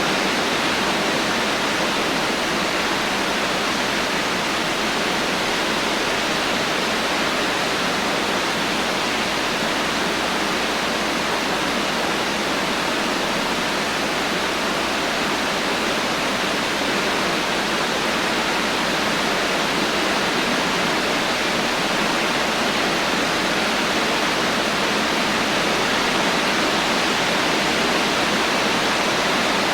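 Heavy rain falling steadily, an unbroken even hiss with no thunder.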